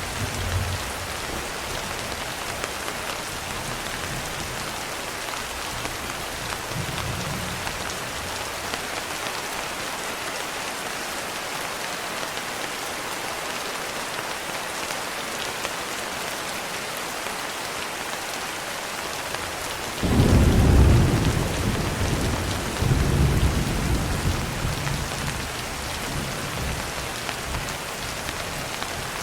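Steady rain falling, with a low roll of thunder that starts suddenly about twenty seconds in, swells again a few seconds later and then fades.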